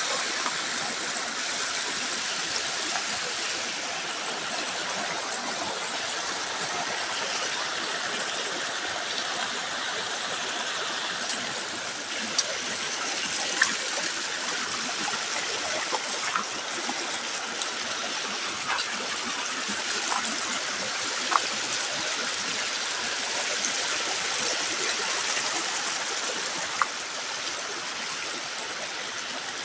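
Stream water flowing steadily, with a few sharp ticks here and there.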